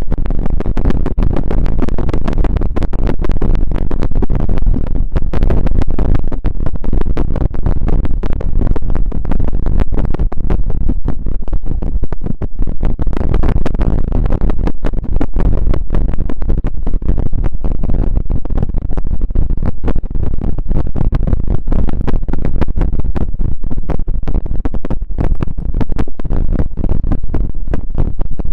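Close-miked ASMR rustling and scratching: a dense, continuous crackle of tiny clicks, loud and steady.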